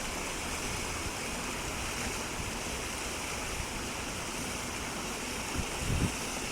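Steady outdoor rushing noise with no distinct calls or knocks.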